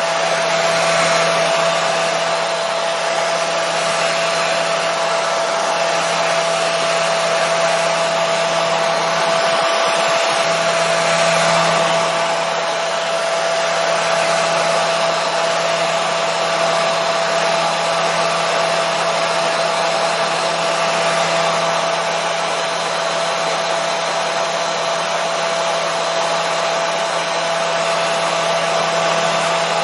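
Hair dryer running steadily: a constant rush of blown air with an unchanging motor whine.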